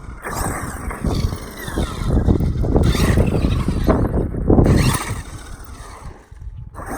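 Traxxas X-Maxx electric RC monster truck being driven hard, its brushless motor whine rising and falling as the throttle is punched in bursts, loudest in the middle. The drivetrain sounds free of ticking for now.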